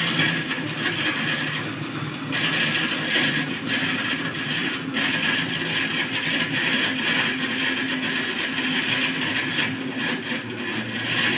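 Steady mechanical noise of a machine running, continuous, with a couple of brief dips.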